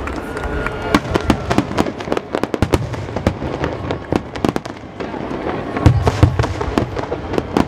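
Aerial fireworks crackling in a dense run of rapid sharp pops, with heavier booms about six seconds in.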